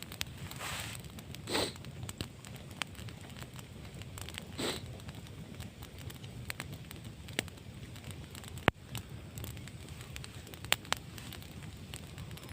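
Wood campfire crackling, with scattered sharp pops over a steady low rush.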